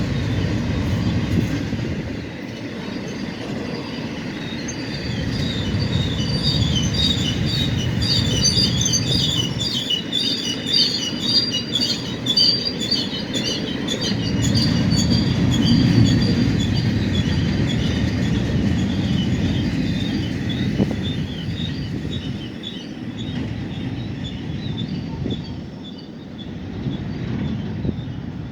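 A CSX maintenance-of-way train's cars rolling past with a low rumble, the wheels squealing in short, repeated high chirps through the middle. The rumble eases near the end as the train passes.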